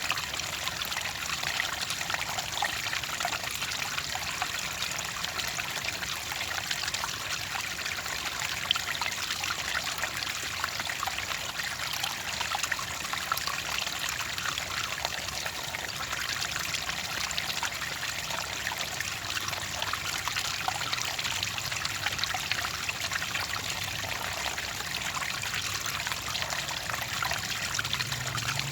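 Clear water trickling and pouring steadily, a continuous babble of small splashes with no pauses.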